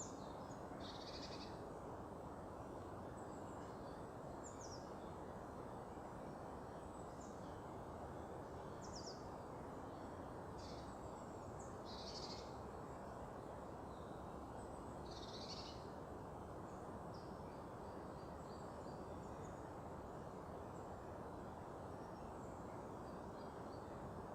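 Small birds giving short, high, thin calls every few seconds, over a steady low background hum of distant noise.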